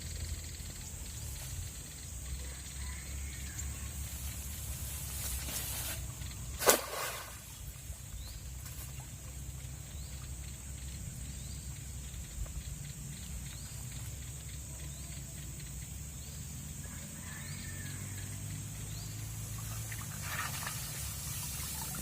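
Outdoor ambience: a steady high-pitched insect drone over a low rumble of wind on the microphone, with a single sharp knock about seven seconds in.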